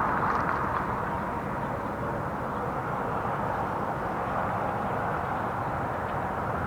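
Infiniti G35 sedan's V6 running through HKS Hi-Power mufflers as the car moves off, a rushing exhaust and road sound that eases over the first couple of seconds, then holds steady.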